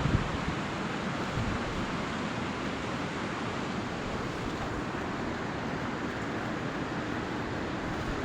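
Wind rushing and buffeting against the microphone outdoors as a steady noise with an uneven low rumble, and a brief louder gust right at the start.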